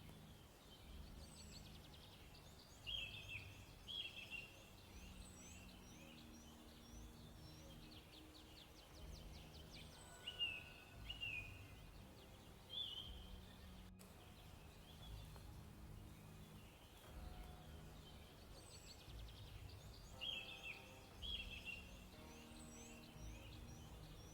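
Faint birds chirping and trilling in short phrases that come and go, over soft, low background music.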